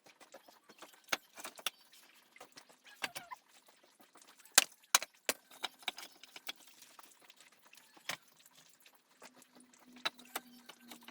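Irregular sharp clicks and knocks, scattered and uneven, the loudest about four and a half seconds in.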